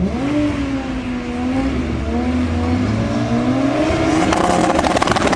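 Toyota Supra MK4's straight-six engine and exhaust under acceleration: the engine note climbs, holds briefly, then climbs again, with a rapid crackle joining in near the end.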